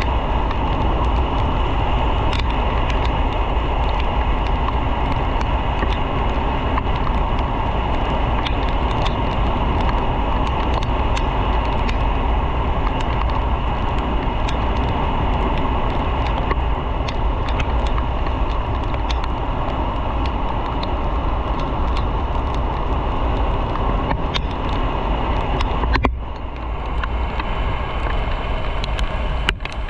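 Motorcycle running at road speed, heard from on the bike: a steady, loud rumble of engine and wind with scattered sharp ticks. The sound changes abruptly and drops in level near the end.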